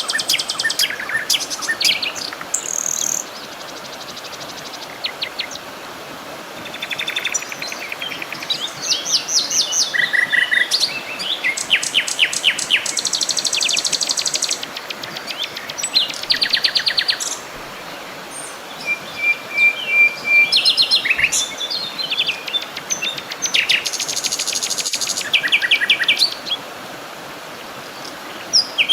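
Several songbirds singing and calling at once: rapid trills and chirp series, some in quick high runs of notes, over a steady hiss in the background.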